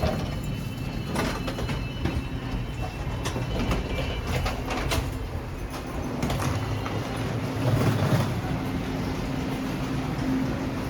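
EMU3000 electric train running: a steady low rumble with a constant hum, broken by scattered clicks and knocks, the loudest a little after the middle.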